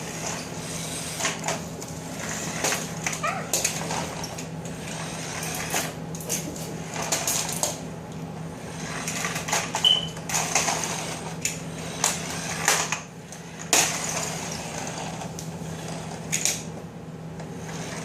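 Plastic toy trucks and cars being pushed and handled, making irregular clicks, knocks and clatter, over a steady low hum.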